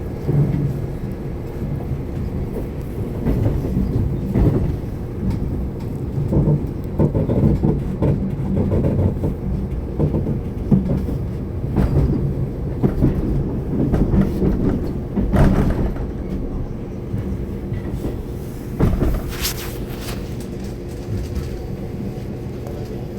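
Metro train running between stations, heard from inside the carriage: a steady low rumble and motor hum, with occasional knocks and clatter from the wheels on the rails.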